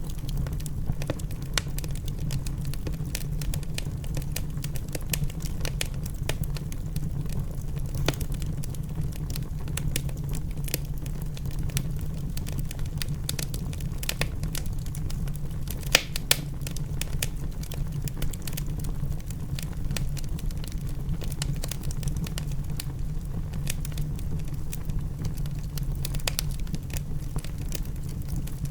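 Wood fire crackling in a fireplace: irregular sharp pops and snaps, several a second, with one louder pop in the middle, over a steady low rumble.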